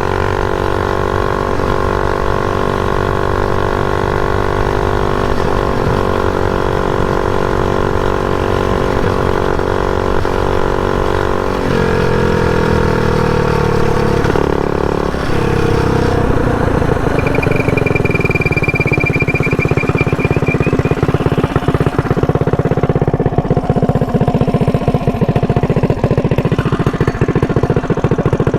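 Mini bike's Predator 212 single-cylinder four-stroke engine running steadily at speed. About twelve seconds in its pitch drops as the throttle is let off, and for the rest it runs at low revs with a pulsing beat.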